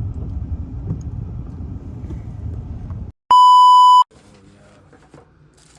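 A low rumbling noise for about three seconds cuts off abruptly, followed by a loud, steady, high-pitched electronic beep lasting under a second: a 1 kHz bleep tone of the kind used for censoring or at an edit.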